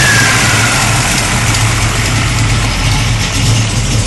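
Twin-turbo Chevrolet engine in a Ford Capri idling steadily on its first start after two years standing; a high falling whine fades out just at the start.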